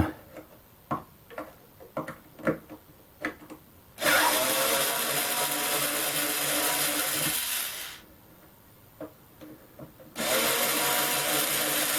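Electric screwdriver backing out screws, running steadily for about four seconds and again for about two seconds near the end, after a few light clicks and knocks of handling.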